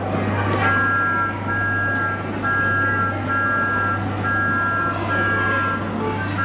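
Electronic beeping: a steady two-note beep repeated about six times, each beep roughly half a second long and under a second apart, over a constant low hum.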